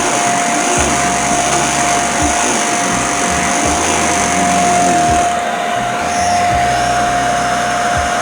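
Vacuum cleaner running with a steady high whine as it is pushed hard across carpet, the low rumble shifting with each stroke.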